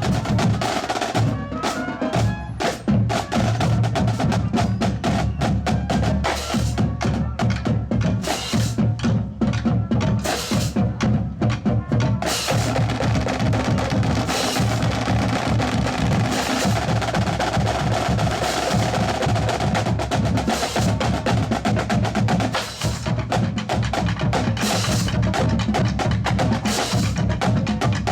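A band playing, led by drums and percussion: a fast, steady beat of snare and bass drum with wood-block-like clicks. About twelve seconds in, a sustained melodic tone comes in over the drumming.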